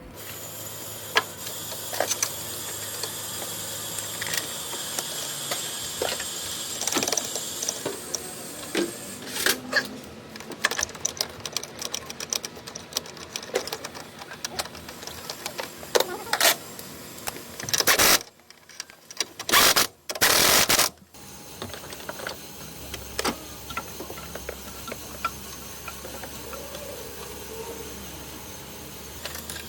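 Irregular mechanical clicking and tapping, with a cluster of much louder bursts about two-thirds of the way through.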